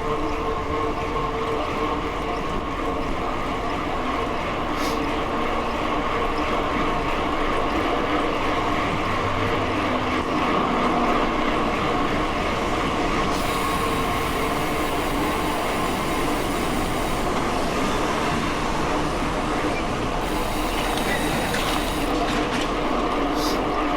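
Mountain bike riding along: a steady rolling noise from the tyres with a continuous hum, a few short clicks, and stretches of extra hiss in the second half.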